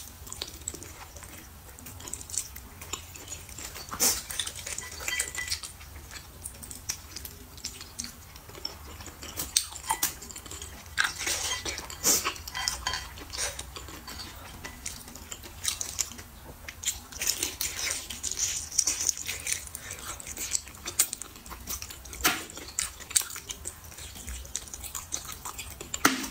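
Someone eating: chewing and slurping, with utensils clicking and clinking against a bowl.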